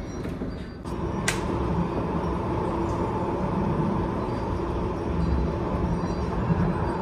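Storm-force wind gusting, a steady rushing rumble with a whistle running through it that builds about a second in. A single sharp click comes shortly after.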